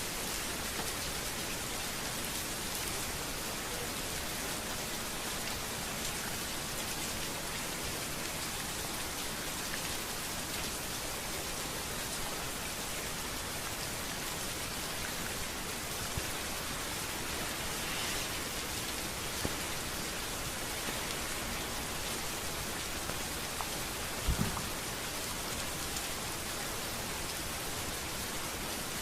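Steady rain falling on a street, an even hiss with scattered drops ticking. A single short low thump sounds near the end.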